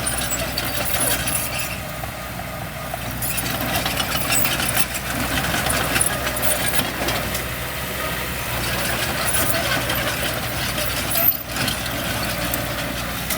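Diesel engine of heavy earthmoving equipment running steadily, with scattered clicks and clatter.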